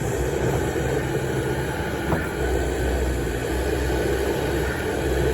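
Kobelco SK280SR excavator's diesel engine running steadily, with a faint steady whine over it and a light knock about two seconds in.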